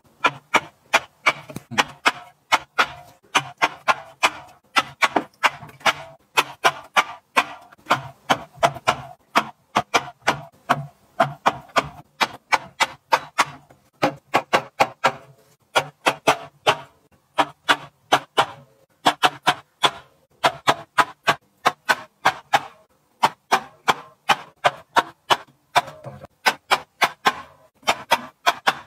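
Rapid series of sharp clicks and taps, about three or four a second, in runs broken by short pauses.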